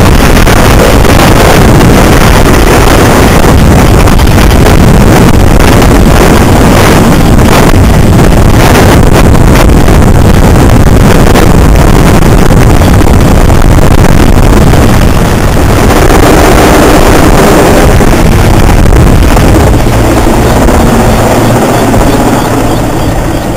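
Mil Mi-2 helicopter, its rotor chop and turbine noise very loud and close, overloading the microphone. It grows fainter near the end as it flies off.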